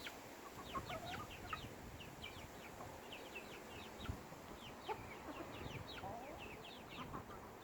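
Two-month-old chicks peeping: a steady run of short, high, falling peeps, several a second, mixed with a few lower clucks.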